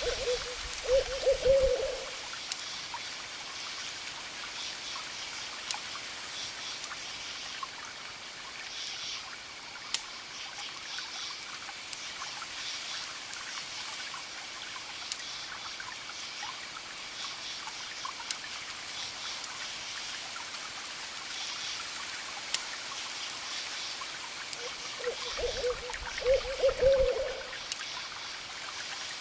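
An owl hooting twice, once near the start and once near the end, over crickets chirping in steady rapid pulses, a campfire's scattered crackles and a steady background hiss.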